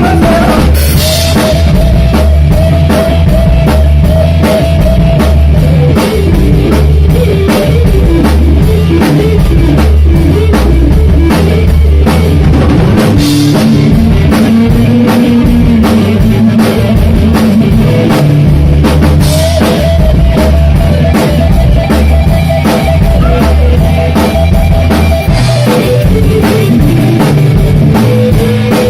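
Live rock band playing loudly: a drum kit keeps a steady beat under electric guitar and bass, with no singing.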